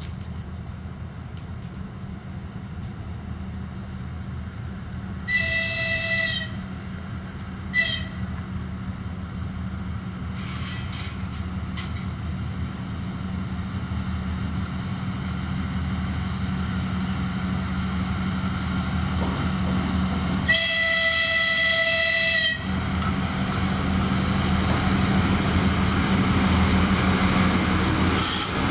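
Diesel locomotive running with a steady low drone that slowly grows louder, sounding its horn three times: a one-second blast about five seconds in, a short toot soon after, and a longer two-second blast about twenty seconds in. Wheel and rail noise builds after the last blast.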